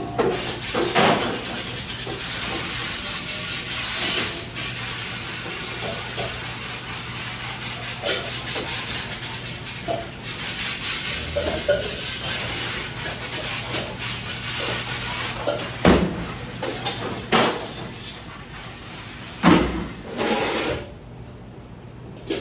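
Scattered knocks and clatters of hard objects being handled, over a steady machine hum and hiss, with two louder bangs near the end.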